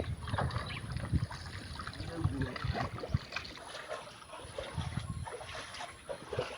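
Floodwater splashing and sloshing, with irregular knocks and low thumps throughout.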